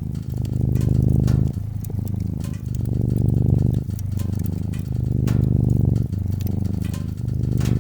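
Domestic cat purring, a close low rumble that swells and eases with each breath about every two and a half seconds. Scattered sharp pops and crackles of a wood fire sound over it.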